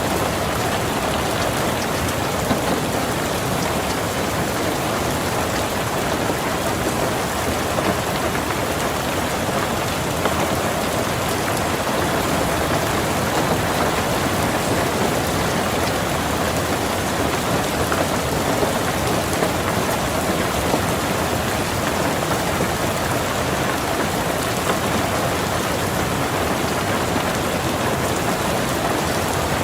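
Steady rain falling on a car's roof and windows, heard from inside the car, with a few sharper drop hits now and then.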